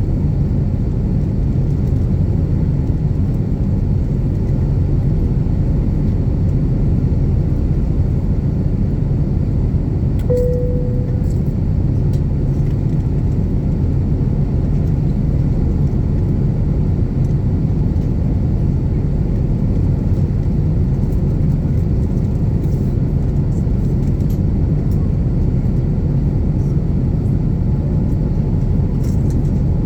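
Steady low rumble of an Airbus A350-900's Rolls-Royce Trent XWB jet engines and airflow, heard from inside the passenger cabin during the climb after a heavy takeoff. A single short tone sounds and fades about ten seconds in.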